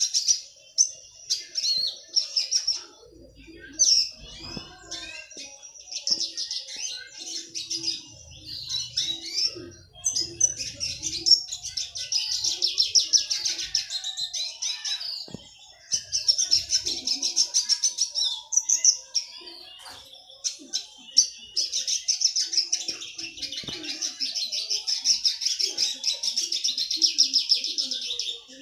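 Red siskin singing: long runs of fast, tightly packed high twittering notes broken by short pauses, in the rapid chattering style bird keepers call 'sepek rapat'.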